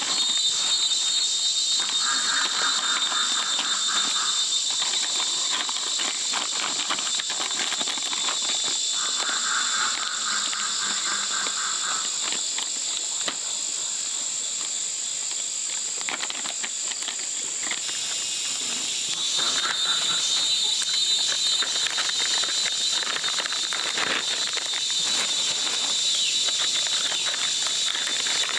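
Insects shrilling steadily in a continuous high chorus, with a lower pulsing insect call coming in three times for a couple of seconds each. Scattered light rustles and taps sound throughout.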